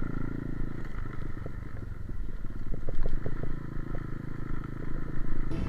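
Pit bike's small single-cylinder four-stroke engine running during a ride, its note dropping about a second in as the throttle eases, with scattered short ticks. Music starts at the very end.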